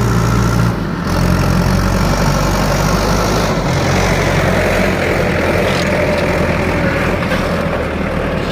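Heavy diesel engine of working machinery running steadily, with a brief dip in level about a second in and a slight change in its note a few seconds later.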